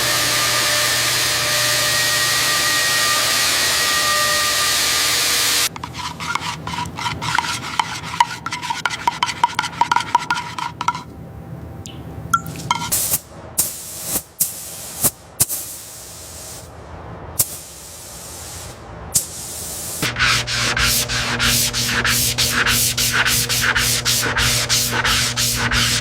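Restoration workshop sounds. A steady hiss runs for about six seconds, then rhythmic rubbing or sanding strokes come at several a second. Scattered clicks and knocks follow in the middle, and the rhythmic rubbing strokes return near the end.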